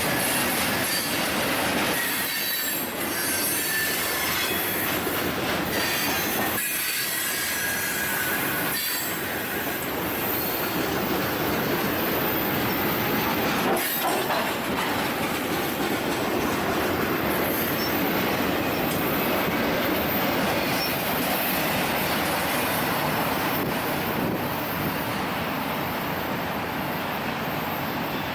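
Union Pacific freight train cars rolling past: a steady, loud noise of steel wheels on rail, with faint thin wheel squeal now and then.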